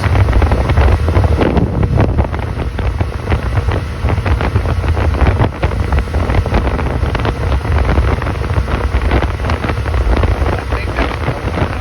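A 26-foot Rendezvous motorboat underway, its engine and hull giving a steady low rumble, with heavy wind buffeting and crackling on the microphone.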